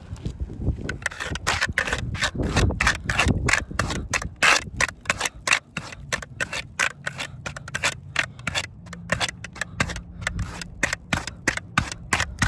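Quick repeated scrubbing strokes across asphalt roof shingles, about four a second, wiping them to check how many granules come loose.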